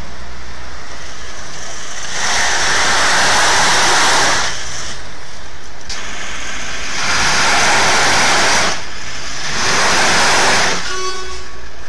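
SUV engine revved hard three times in long surges while the vehicle strains on a tow cable against a stuck heavy truck. Between the surges the engine runs at a steady low hum.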